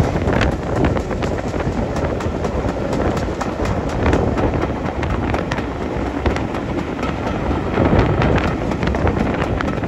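Train running: a steady noisy rumble with many small clicks, with wind noise on the microphone.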